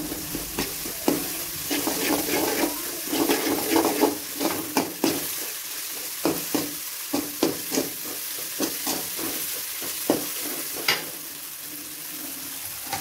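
Onions, tomato and ginger-garlic paste sizzling in hot oil in an aluminium kadai while a perforated metal spatula stirs them, scraping and clicking against the pan at an irregular pace: the ginger-garlic paste being sautéed.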